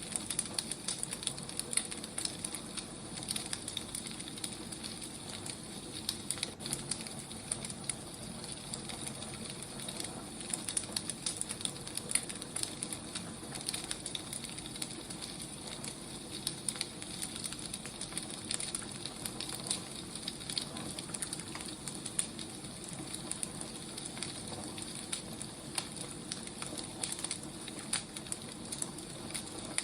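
Wood fire burning, crackling with many small irregular pops over a steady hiss.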